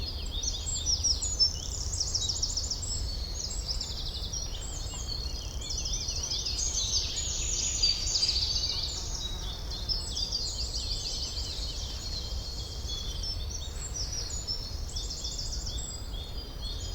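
A chorus of many songbirds singing and chirping at once in a forest, with quick overlapping trills and chirps throughout, over a low steady rumble.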